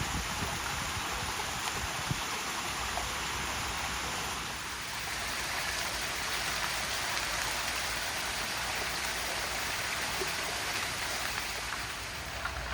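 Steady hiss of falling rain and running water, even throughout with no distinct drops or splashes standing out.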